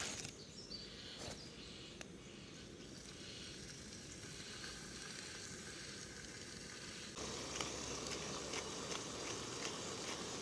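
Food frying and sizzling in a pan, a steady hiss with a few small crackles. About seven seconds in, the sound steps abruptly louder and fuller.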